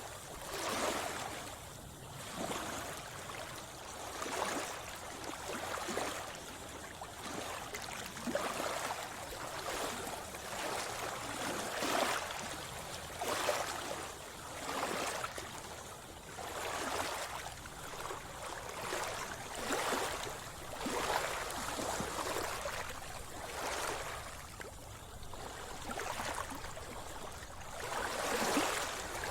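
Sea water splashing and sloshing around a swimmer, with a surge of splashing every second or two, like swimming strokes.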